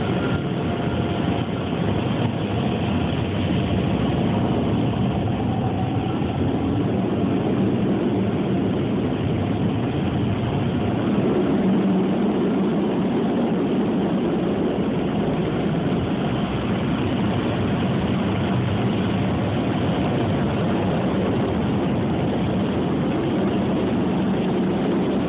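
Drive-through car wash blower dryers blowing a steady, loud blast of air over the car, heard from inside the car: the drying stage at the end of the wash.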